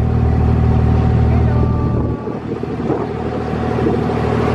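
A vehicle engine running with a steady low hum, which drops away suddenly about two seconds in.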